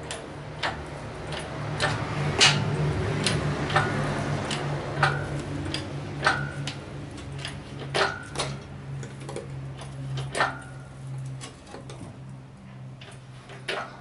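Hydraulic engine hoist being pumped up slowly: irregular metallic clicks and clanks about once a second, some with a brief ring, as the lifting straps take up tension on the engine. A steady low hum runs underneath.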